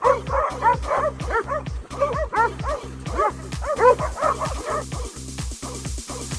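Dogs barking and yipping rapidly, several at once, over music with a steady thudding bass beat. The barking thins out a little over halfway through, leaving the music.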